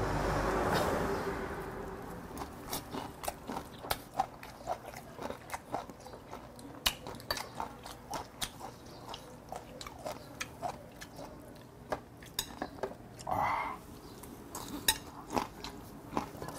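A man chewing and crunching food close to a clip-on microphone, with irregular wet mouth clicks and light taps of chopsticks against dishes. A soft rushing noise fades out over the first two seconds.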